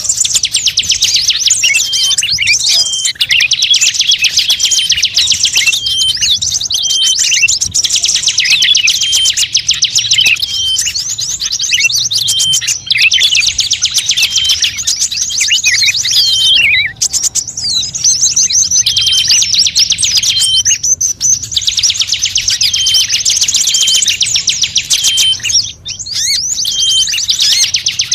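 Bird-trapping lure recording of small songbirds: a loud, dense, rapid high-pitched chattering trill with short slurred notes repeated over and over. It breaks off briefly a few times before resuming.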